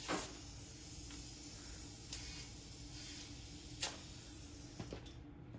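Short hisses of air from a tire valve stem as a tire pressure gauge is pressed on and pulled off, a few times, the loudest a little past the middle.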